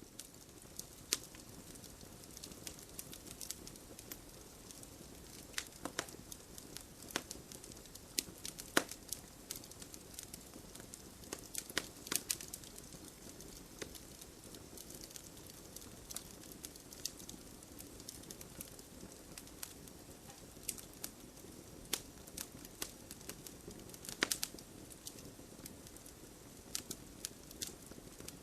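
Campfire burning, with a steady soft hiss and many irregular sharp crackles and pops, a few of them louder.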